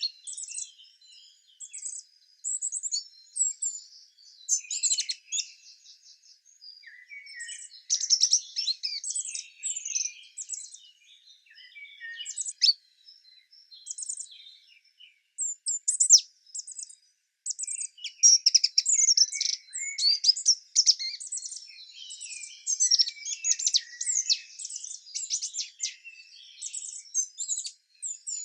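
Several small songbirds chirping and singing, with short calls and trills overlapping; the singing thins out for a few seconds in the middle and grows busier in the second half.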